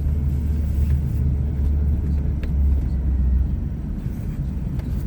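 Vehicle engine running steadily in a low drone while driving slowly along a rough trail.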